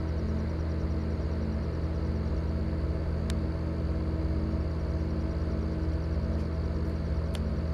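Steady low industrial drone made of many layered low tones, with a faint regular throb a little under twice a second and a few faint clicks. The recordist blames it on a large industrial engine venting upward.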